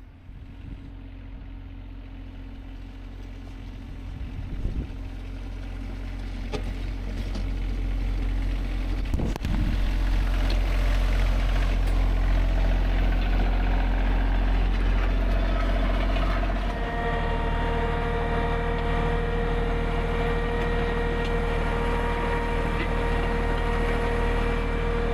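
RK24 subcompact tractor engine running steadily, growing louder over the first ten seconds or so. About two-thirds of the way through, a steady whine joins it and holds to the end.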